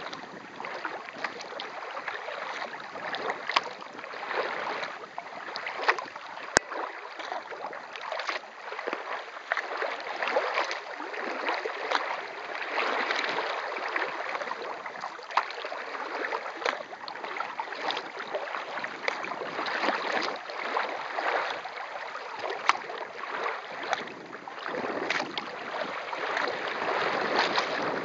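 Kayak being paddled on open lake water: water splashing and rushing along the hull, swelling and fading every second or two, with a few sharp clicks.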